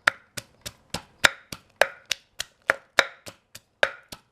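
Pestle pounding garlic in a mortar: about fifteen steady strikes, roughly three and a half a second, each a sharp knock with a brief ring.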